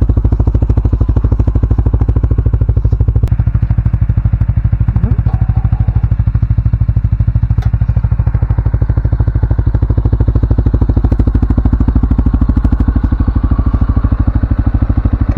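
CFMoto ATV engine running steadily, its exhaust a loud, rapid, even pulsing with a couple of faint clicks over it.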